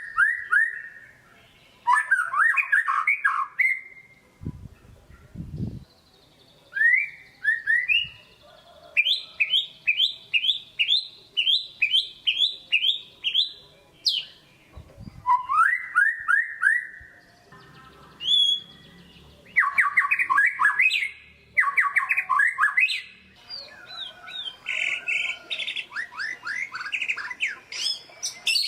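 White-rumped shama (murai batu) singing hard in quick phrases of rapidly repeated, sharp downward-slurred whistled notes, one burst after another. A couple of dull low thumps come in about five seconds and fifteen seconds in.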